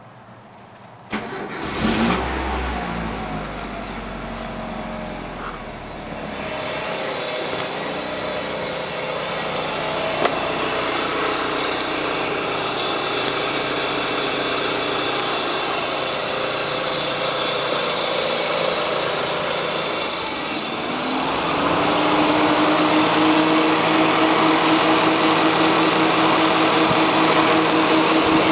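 Swapped-in Mitsubishi 4G63 DOHC fuel-injected 2.0-litre inline-four cranked on the starter, catching about a second in and flaring briefly, then settling to a steady idle. About twenty seconds in, a higher tone rises and holds, and the running gets louder.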